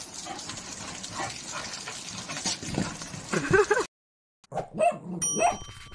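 Steady rain pattering on a wet wooden deck as a bull terrier scrambles about, with a short loud vocal sound about three and a half seconds in. The sound then cuts off abruptly and a short end-screen jingle plays, ending in bright ringing dings.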